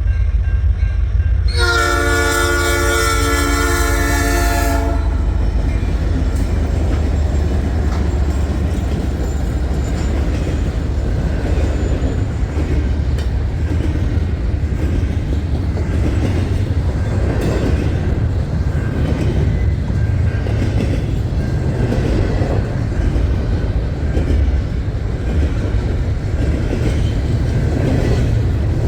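A Canadian National container freight train sounds its locomotive horn once, a steady chord lasting about three seconds, starting a couple of seconds in. The train then rolls past with a steady low rumble and wheel clatter.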